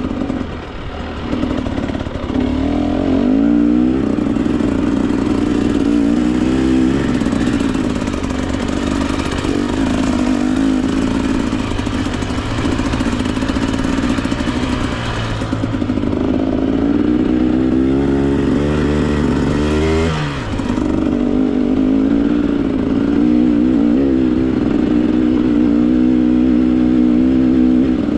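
Two-stroke enduro dirt bike engine, a Husqvarna TE 300, revving up and down with the throttle while riding rough single track. There is a short dip in revs about a second in, and a clear drop in revs about twenty seconds in.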